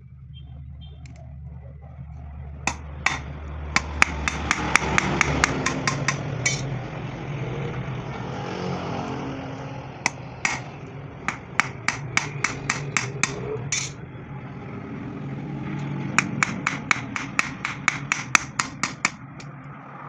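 Hammer blows on metal in three quick series, about three or four strikes a second, over a steady mechanical hum that swells and fades.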